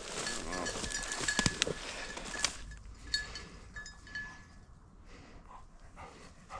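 A small bell on a hunting dog's collar jingling on and off as the dog moves through cover. The jingling fades after about three seconds, with brush rustling underneath.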